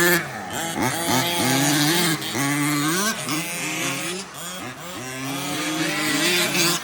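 Motors of several radio-controlled 4WD racing trucks, overlapping, their pitch rising and falling again and again as the trucks accelerate and slow.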